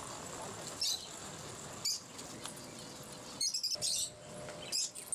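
Small caged birds chirping in short, high calls about once a second, with a busier flurry of chirps a little past the middle.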